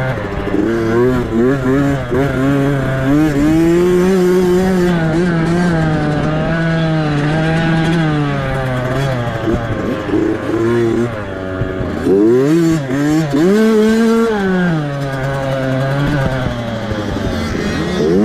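Small two-stroke motocross bike engine, about 65cc, revving hard under race riding. Its pitch climbs and falls as the throttle opens, closes and the gears change, with a sharp drop and quick re-climbs about twelve seconds in.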